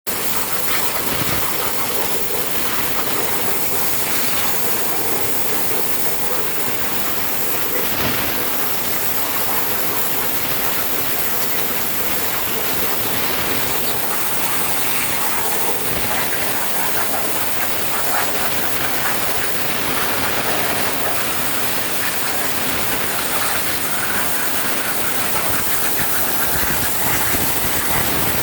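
Mini CNC plasma cutter's torch cutting metal: a steady hiss of the plasma arc and its air jet, with a few faint clicks.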